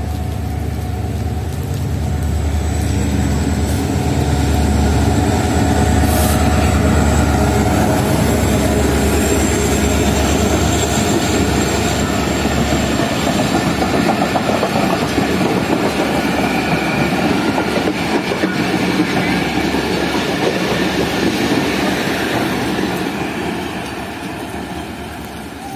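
A diesel locomotive passes at speed hauling a passenger express: its engine rumble dominates the first dozen seconds. Then the coaches' wheels clatter over the rail joints, and the sound fades away near the end.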